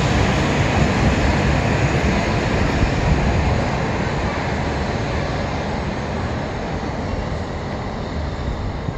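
Shinkansen train running through the station: a loud, steady rush that slowly fades over the second half as the train draws away.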